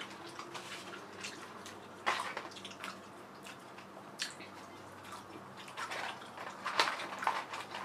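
Chewing french fries close to the microphone: irregular wet mouth clicks and smacks, with soft rustles of the paper fry carton as fries are picked out.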